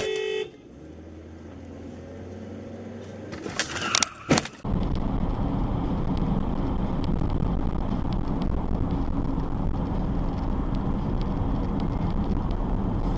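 Dashcam recording of road vehicles: a short pitched tone at the start, a low engine hum, a few sharp knocks about four seconds in, then a sudden change to loud, steady road noise.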